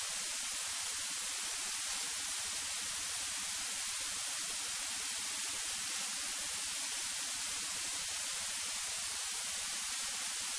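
Steady hiss of the cockpit intercom audio feed, even and unchanging, with no engine or other distinct sound audible over it.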